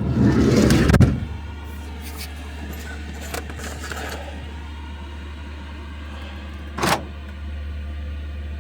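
Van's diesel night heater running with a steady low roar. A loud rumbling rustle fills the first second, and a single sharp knock comes about seven seconds in.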